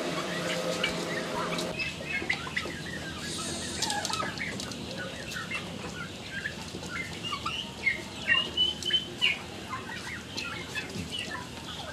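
A flock of farm chickens clucking and chirping, with many short calls overlapping and the loudest coming about two-thirds of the way through.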